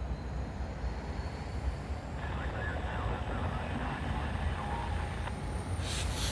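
Steady low rumble of an NS diesel locomotive running, with a short sharp click near the end.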